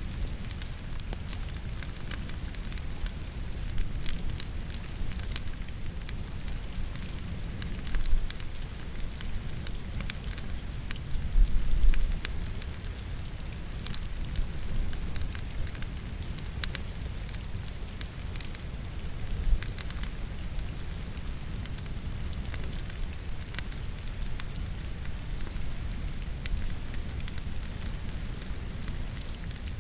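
Wood logs burning in a fireplace, crackling and popping many times, over the steady hiss of rain falling. A few heavier low thuds stand out, the loudest about twelve seconds in.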